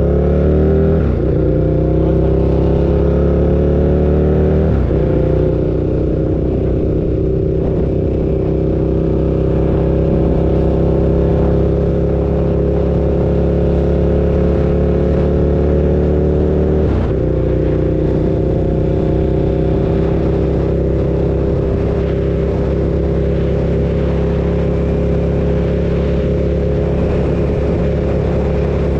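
KTM 1290 Super Duke's V-twin engine running under way, its note climbing slowly and steadily, with three brief breaks in the note: about a second in, near five seconds and around seventeen seconds.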